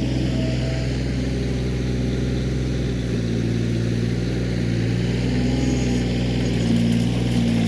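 Kioti CK20S compact tractor's three-cylinder diesel engine running steadily while the backhoe works, its note shifting slightly about three seconds in. Light metallic clicks come in near the end.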